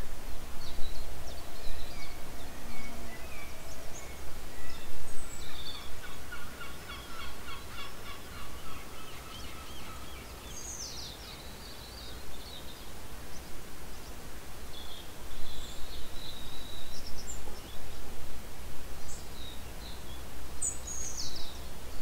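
Wild birds calling: scattered high chirps, and a rapid rattling run of repeated notes from about six to ten seconds in, over steady low background noise.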